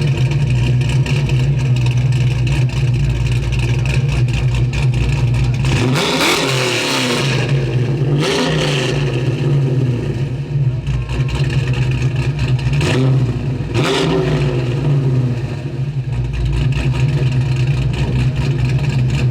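Car engine running with a loud steady note, revved briefly three times: about six seconds in, again around eight seconds, and once more near fourteen seconds.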